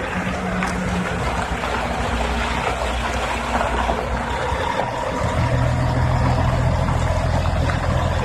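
A truck engine running under steady rushing road and wind noise. About five seconds in, its note drops lower and grows stronger.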